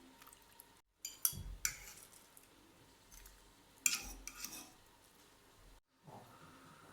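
Cutlery clinking and scraping against plates, in two short clusters of clinks about a second in and again about four seconds in.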